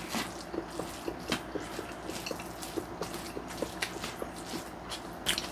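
Close-up eating sounds: soft, wet chewing of kimchi sundae (Korean sausage) with small mouth clicks at a steady pace, and a few sharper clicks of a spoon against a plastic takeout tray as rice is stirred.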